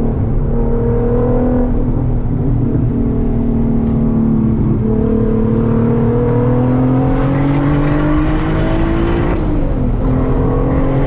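Volkswagen track car's engine under load. Its pitch dips briefly near the start, climbs steadily for several seconds, then drops sharply near the end at a shift or lift and holds steadier.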